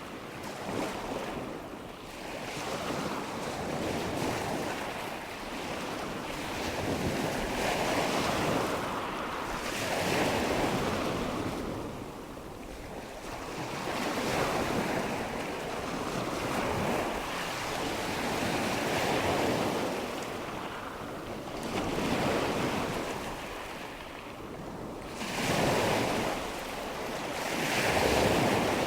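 Recorded nature ambience of rushing water with wind. The water surges and washes in irregular swells every two to three seconds.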